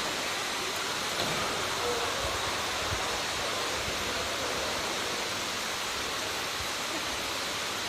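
Steady rushing of floodwater, a continuous even wash of pouring water.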